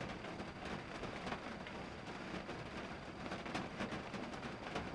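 Steady rain falling on a car's roof and windows, heard from inside the cabin: an even hiss dotted with many separate drop hits.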